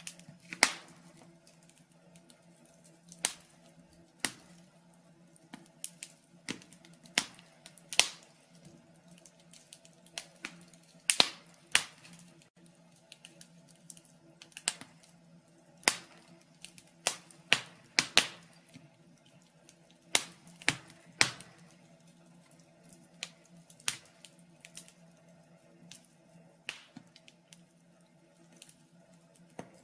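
Wood fire crackling in a fireplace: irregular sharp pops and snaps, sometimes two or three close together, over a faint steady hum.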